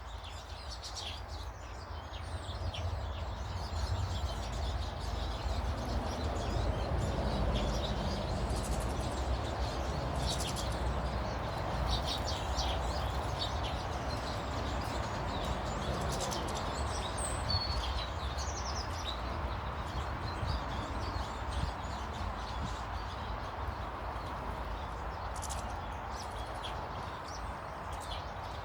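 Small garden birds chirping and calling in short, scattered notes over a steady low rumble.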